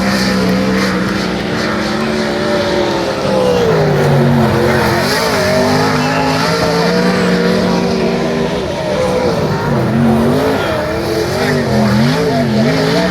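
Sprint car engines running on a dirt oval, several at once. Their pitch rises and falls as the cars go off and back on the throttle through the corners, with a steadier drone in the opening seconds.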